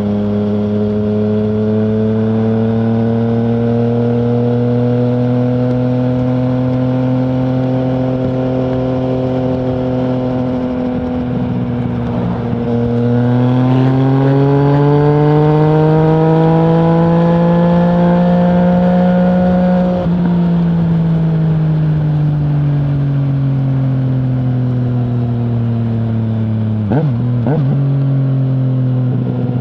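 Yamaha MT-09's 847 cc crossplane three-cylinder engine through an Akrapovic full exhaust with no dB killer, heard while riding. The revs climb slowly, dip around eleven seconds in, then rise harder and louder. Near twenty seconds they drop off and fall away slowly, with a few short pops about twenty-seven seconds in.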